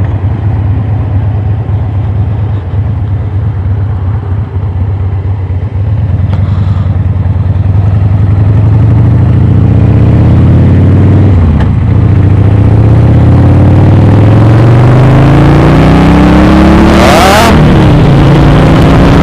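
Cruiser motorcycle engine running low and steady, then pulling away and accelerating, its pitch rising with a break for a gear change about midway and another near the end. It is heard through a microphone inside the rider's helmet. A brief rush of hiss comes shortly before the second shift.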